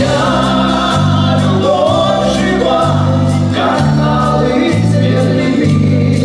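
A vocal-instrumental ensemble playing a pop song live: several voices singing together over an electric bass line that changes note about once a second.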